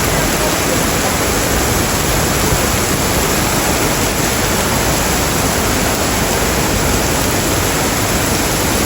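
Torrential rain pouring down in a steady, dense hiss, a heavy downpour driven by a typhoon.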